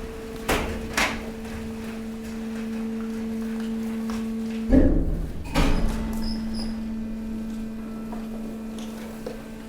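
Hydraulic waste compactor pressing mixed waste. The hydraulic pump hums steadily under two sharp knocks near the start. About five seconds in comes a loud crunching bang as the load gives under the ram, with a second one just after; the hum breaks briefly and then resumes.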